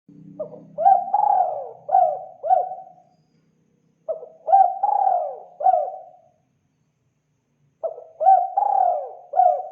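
Spotted dove cooing: three phrases of four or five coos each, about four seconds apart, the last running past the end.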